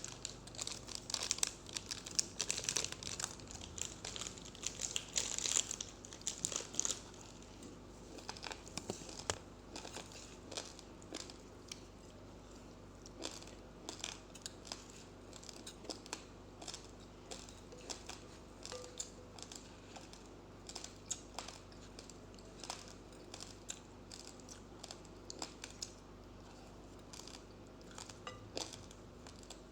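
Raw rice grains crunched in the mouth, close to the microphone: a dense run of crackling crunches for the first several seconds, then sparser single crunches.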